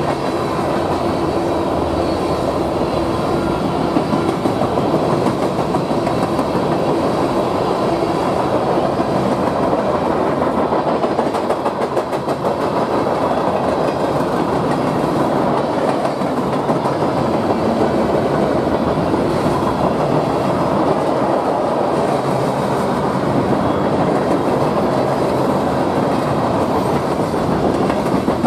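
Freight train cars passing at close range: a loud, steady rolling noise of steel wheels on the rails that does not let up.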